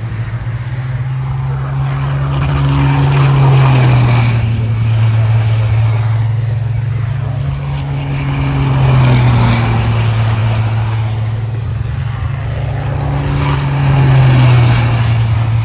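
Racing trucks' diesel engines running at speed: a steady low drone that swells and fades about every five seconds, as trucks come past.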